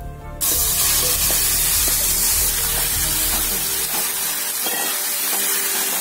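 Grated apple frying in hot fat in a pan, a loud steady sizzle that starts suddenly about half a second in, stirred with a wooden spoon.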